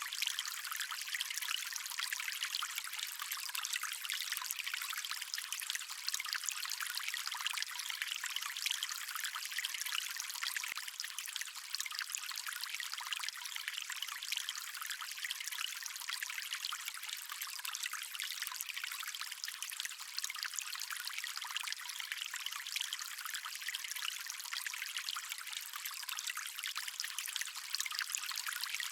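Water flowing in a stream, a steady trickling and splashing with no low rumble.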